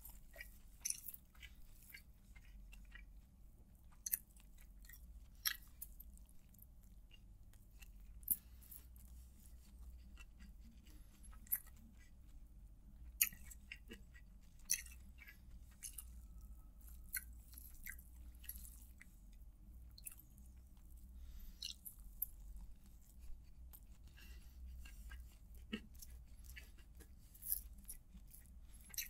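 Faint, close-up chewing of rice eaten by hand, with many short, sharp wet mouth clicks and light rustles of fingers working the rice, over a low steady hum.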